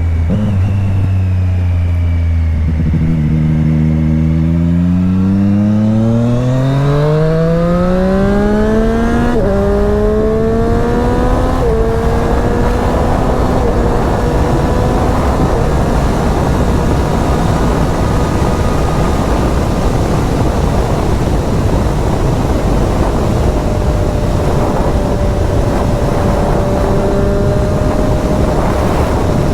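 2020 Triumph Street Triple RS's 765 cc three-cylinder engine pulling hard under acceleration, its note rising steadily in pitch, with two upshifts about nine and twelve seconds in. It then settles to a steady cruising note under growing wind rush.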